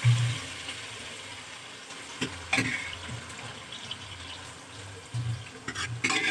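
Boiled grated carrots sizzling in hot ghee in a non-stick frying pan, a steady hiss of wet food frying. A few sharp clicks and knocks come about two and a half seconds in and again near the end.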